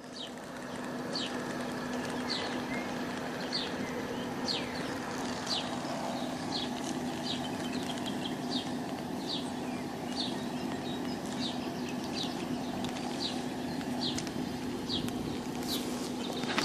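A small bird repeats a short high chirp about once a second over a steady low hum and outdoor background noise.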